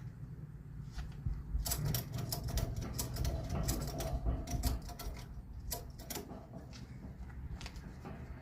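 A ratchet clicking in quick, uneven runs for several seconds, then a few scattered clicks near the end, over a low steady rumble.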